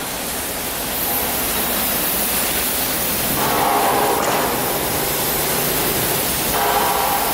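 CNC panel saw machinery running with a loud, steady rushing noise, like air or dust extraction. Two brief pitched sounds come through, about three and a half and six and a half seconds in.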